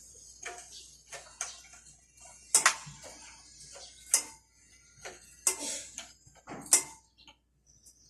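Irregular metallic clicks and clinks from working on a motorcycle chain with hand tools, about a dozen sharp strikes spread unevenly, several with a brief metallic ring.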